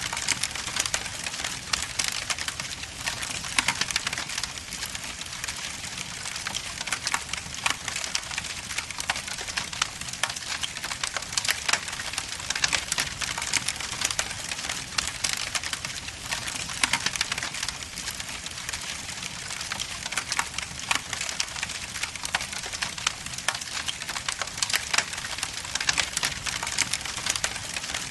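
Logs burning in an indoor fireplace, crackling and popping constantly in dense rapid snaps over a steady hiss.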